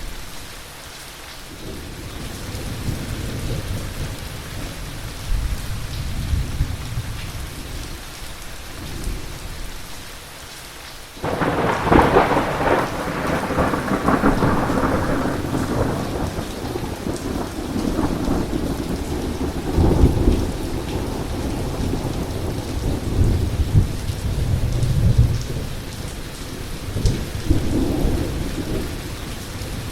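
Heavy rain falling steadily through a thunderstorm, with low thunder rumbling. About eleven seconds in, a sudden loud thunderclap breaks and rolls on for several seconds, followed by further rumbles of thunder.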